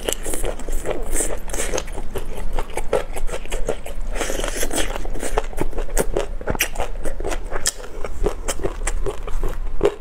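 Close-miked eating sounds: a person biting and chewing spicy food, with many short wet mouth clicks and a couple of hissy stretches.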